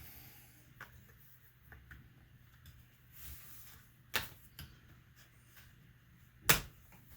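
Plastic snap clips of the HP G60 laptop's screen bezel popping loose as it is pried apart: two sharp clicks, about four seconds in and again about six and a half seconds in, among a few fainter ticks.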